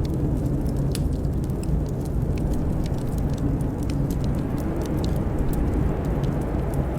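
Steady low rumble of blizzard wind, with the scattered sharp crackles of a wood fire in a fireplace.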